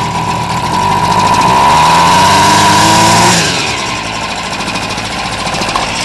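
Homelite two-stroke string trimmer engine running just after a cold start. It revs up, rising in pitch for a couple of seconds, then drops back to idle a little past halfway. It is running only on fuel poured into the carburetor, because its split fuel lines are bypassed.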